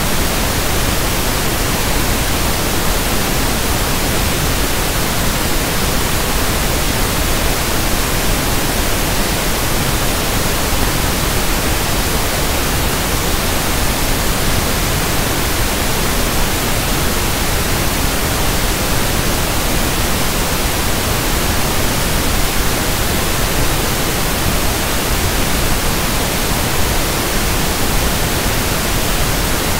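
Steady synthetic pink noise (1/f noise): an even, unchanging hiss spread across low and high pitches, with no breaks or changes.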